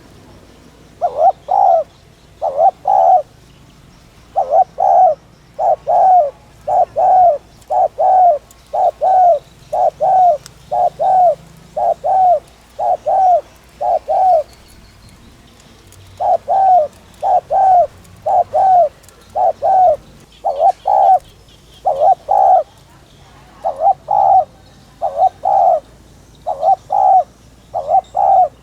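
Spotted dove (Streptopelia chinensis) cooing in fast, driving runs of repeated coos, about one or two a second, in the rapid 'thúc' style that keepers use to stir up other doves. The series breaks off for about two seconds midway, then resumes.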